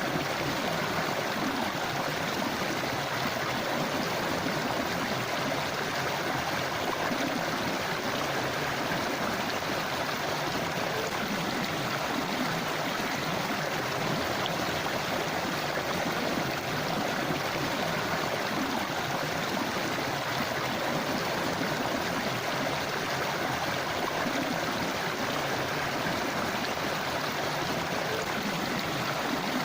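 Forest river flowing steadily over rocks: continuous rushing and gurgling water.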